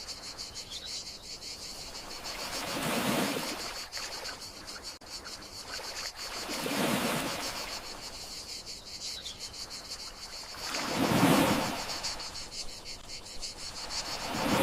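Gentle sea waves washing ashore in slow swells about every four seconds, over steady chirping of crickets.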